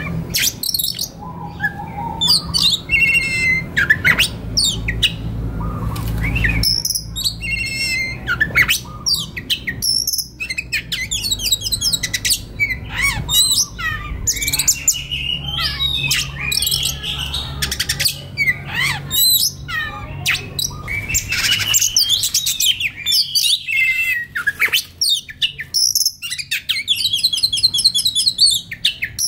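Oriental magpie-robin singing a varied song of clear whistles, chirps and fast trills in quick succession, with short pauses between phrases.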